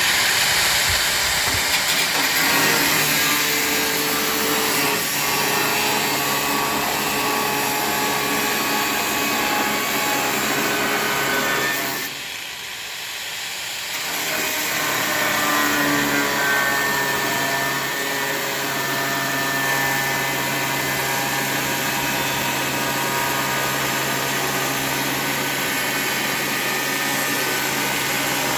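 A power tool running steadily with a loud hiss, easing off for a couple of seconds about twelve seconds in, then running on.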